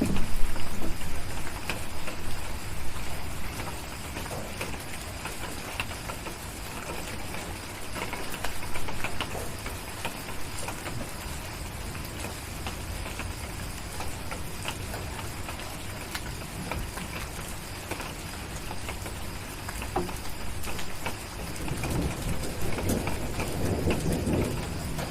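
Steady rain falling, with scattered sharp drop ticks throughout. Low rumbles of distant thunder swell near the start and again near the end.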